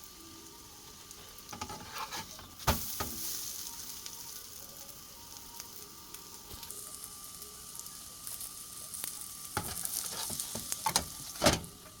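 Potato-stuffed roti cooking on a hot griddle, oil sizzling steadily, with sharp knocks of a spatula against the pan, the loudest about 3 seconds in and near the end. The sizzling gets louder after the first loud knock.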